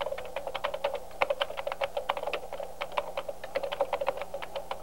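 Fast typing on a laptop keyboard: a quick, uneven stream of key clicks, several a second, without a break.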